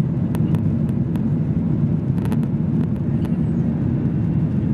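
Steady low rumble inside a Boeing 737-800 cabin, from its engines and airframe. A scatter of short sharp clicks and rattles comes through, several of them close together about two seconds in.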